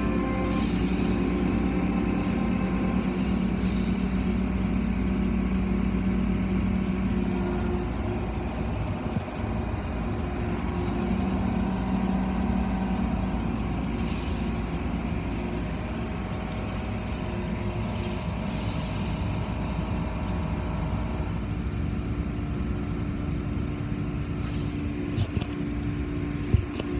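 Car wash equipment running with a steady hum, broken now and then by short bursts of hiss, and a single sharp knock near the end.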